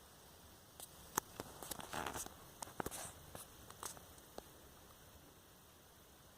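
Faint scattered clicks and soft rustles over a quiet room background, dying away after about four seconds.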